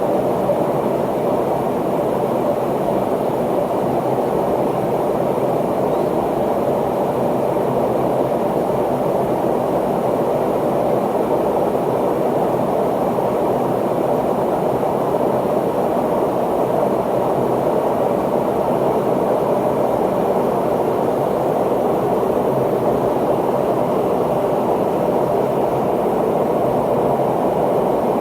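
Steady cabin noise inside an McDonnell Douglas MD-83 airliner at speed: rushing airflow and the drone of its rear-mounted Pratt & Whitney JT8D turbofans, even and unchanging.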